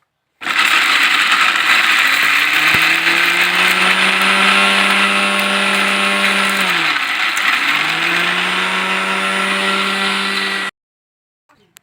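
Electric mixer grinder grinding chutney ingredients, running loudly at a steady high speed. About seven seconds in, the motor briefly slows and then spins back up. It cuts off suddenly near the end.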